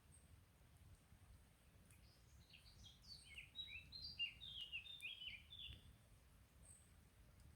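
A songbird singing one phrase of about three and a half seconds, starting about two seconds in: a quick run of short notes, each sliding downward. A few faint crackles from the campfire.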